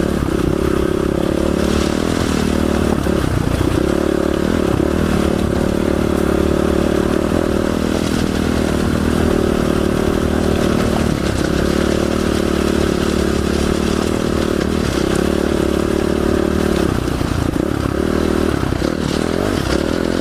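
Dual-sport supermoto motorcycle engine running at steady riding throttle, with clattering as the bike goes over rough, rocky ground. The engine note dips briefly a few times as the throttle is eased.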